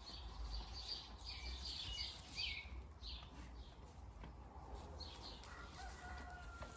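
Small birds chirping faintly and repeatedly, with a thin held whistling tone near the end and a steady low rumble underneath.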